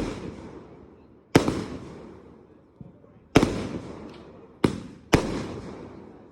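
Fireworks going off: four loud, sharp bangs, about two seconds apart and then two close together, each echoing away over a second or more.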